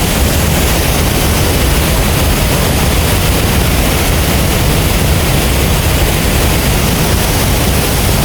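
Large waterfall's steady, loud roar of falling water, unbroken throughout.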